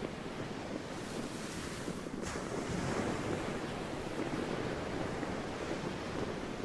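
Sea waves washing steadily, with wind blowing across the microphone.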